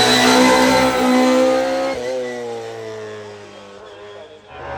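VW Polo hillclimb race car engine running hard at high revs, then its note drops in pitch and fades as the car goes past and away.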